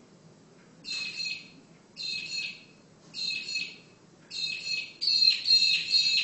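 A bird calling five times in a row, each call about half a second long and roughly a second apart. The fifth call is longer and the loudest.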